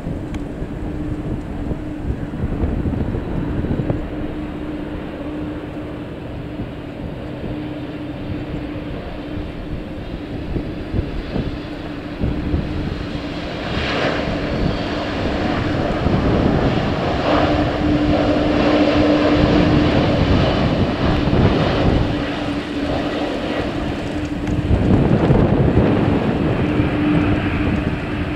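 Jet airliner on landing approach passing low overhead: its engine noise swells from about halfway through, with a high whine coming in first, and stays loud to the end. A steady hum and wind rumble on the microphone lie underneath.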